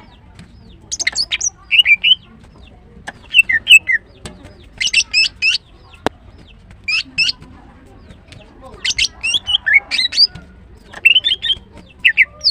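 Female greater green leafbird calling: about seven bursts of quick, high chirps and whistled notes, one every second or two. A single sharp click comes about halfway through.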